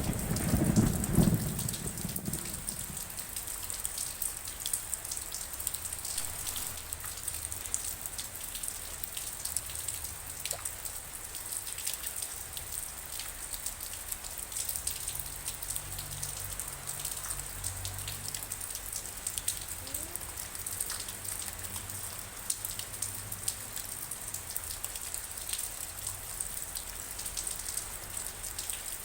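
The tail of a thunder rumble dies away in the first two seconds. Steady rain follows, with many separate drops ticking close by.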